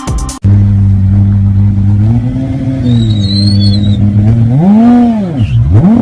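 High-performance car engine running steadily, then revved: a short rise in pitch about two seconds in, and a larger rev that climbs and drops away near the end.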